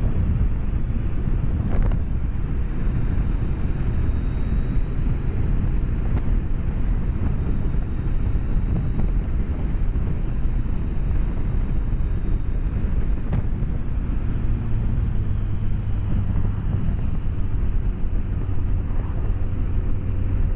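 BMW K1200S inline-four motorcycle riding along at steady speed, heard from inside the rider's helmet as a constant low rumble of engine and wind. A steadier engine hum comes up about two-thirds of the way through.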